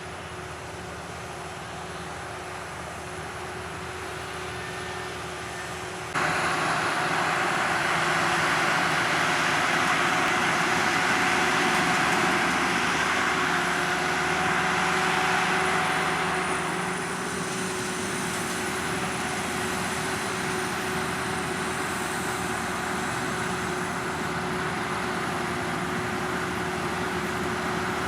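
Sakpattana KM-D#1 rice combine harvester running while it harvests paddy: a steady engine and machinery drone with a thin high whine. About six seconds in it jumps suddenly louder with a rushing noise, which eases back down about eleven seconds later.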